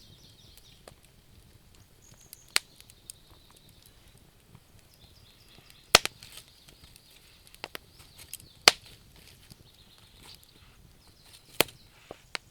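Wood fire crackling, with a few sharp pops from the burning logs, the loudest about six seconds in and again near nine seconds. Faint high chirping comes and goes in the background.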